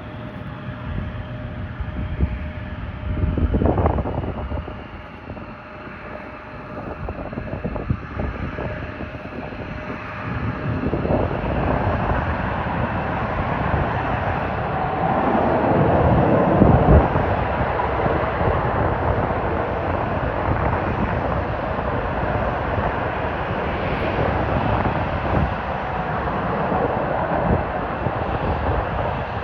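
Jet aircraft engines at an airfield: a faint steady whine at first, then about a third of the way in the engine noise swells into a loud, steady roar that peaks around the middle, as on a takeoff run. A short gust of wind hits the microphone a few seconds in.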